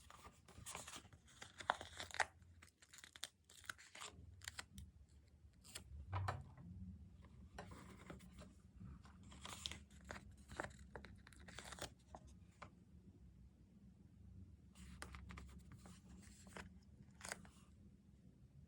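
Paper stickers being peeled off their backing sheets and handled: a run of short, irregular papery tearing and crinkling sounds.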